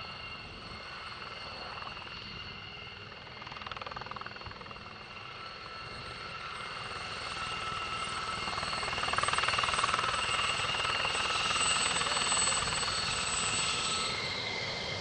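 Military turbine helicopter flying, with a steady high engine whine over the rotor noise. It grows louder about halfway through and stays near its loudest to the end, as if passing close.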